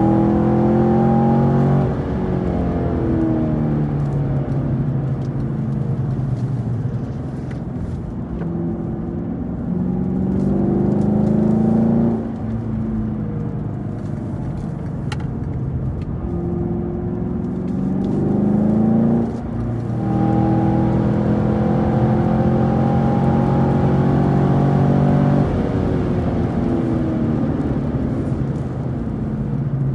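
Car engine driven hard, its pitch climbing under acceleration and falling back again and again as the driver lifts off and brakes, as on a lap of a race track.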